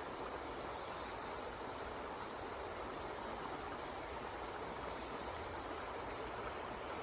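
Water running steadily in a stream, an even rushing sound with a couple of faint high ticks.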